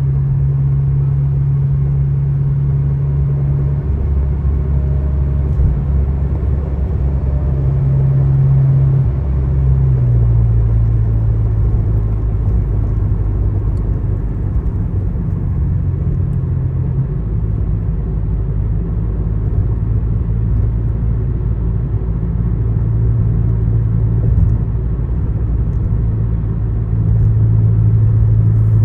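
Car driving along a highway: a steady low engine and road drone, its pitch dropping slightly about ten seconds in.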